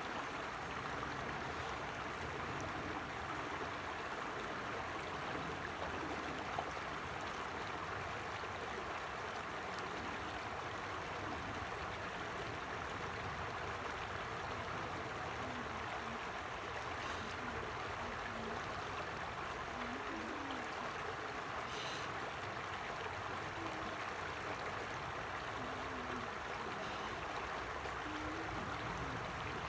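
Forest creek flowing steadily, with small gurgles now and then.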